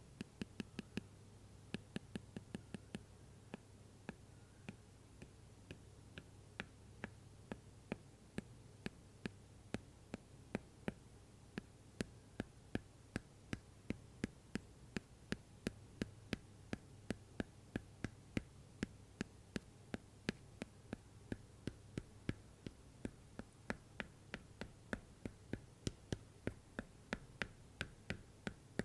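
Apple Pencil tapping on an iPad cover: a long run of sharp, crisp taps, a few a second and fairly even.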